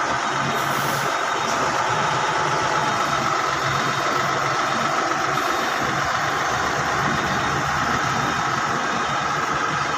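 Engine of a truck or bus running steadily, an even drone with no changes in pace.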